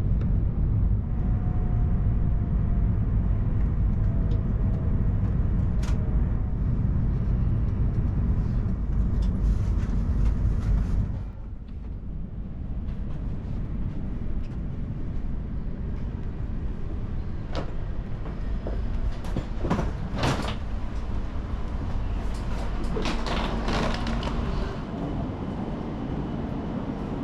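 E2 series Shinkansen running with a low rumble that drops suddenly about eleven seconds in to a quieter hum, followed by a few scattered clicks and knocks.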